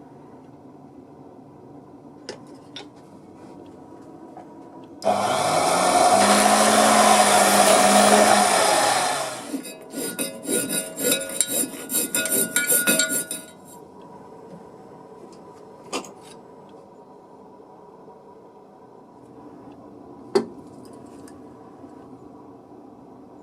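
Proxxon mini table saw switched on: it runs loudly for about four seconds, then spins down. A few seconds of quick, rough scraping strokes follow, with a few light knocks before and after.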